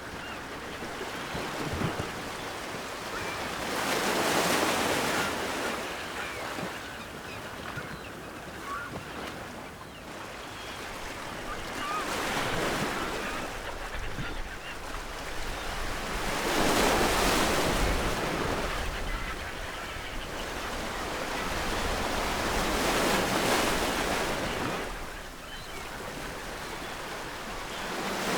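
Ocean waves washing onto a shore, surging and falling away in about four slow swells, with faint seagull calls in the distance.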